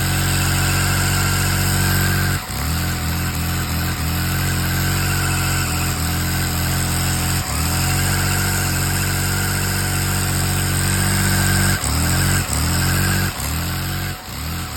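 Motor of a custom LEGO Technic truck running with a steady hum. Several times it briefly drops in pitch and climbs back, most often near the end, as if bogging under load and recovering.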